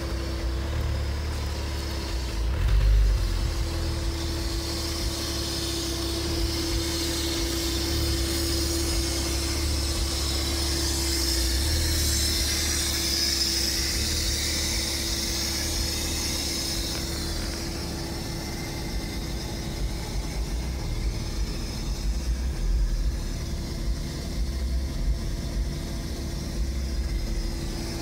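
2000 Porsche Boxster's flat-six engine idling steadily, with a brief low thump about three seconds in.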